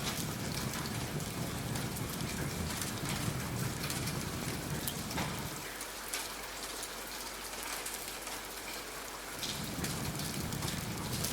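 Steady rain, an even hiss scattered with sharp clicks. A low rumble under it drops away for a few seconds in the middle.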